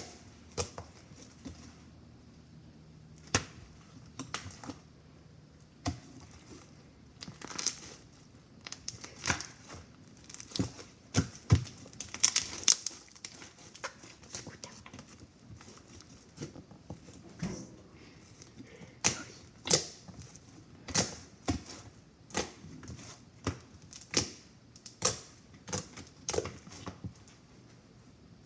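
Slime being squished and poked by hand, making irregular sharp clicks and pops with short quiet gaps between them.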